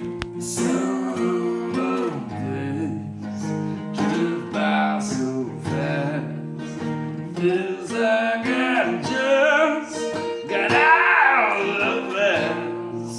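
Music: a strummed acoustic guitar with a male voice singing a melody over it.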